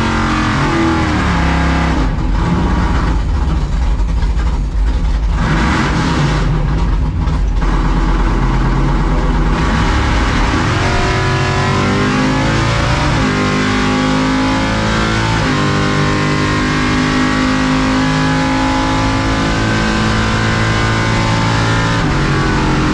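C10 drag truck's engine run hard through a drag-strip pass, its pitch rising and gliding again several times as it revs up and changes gears.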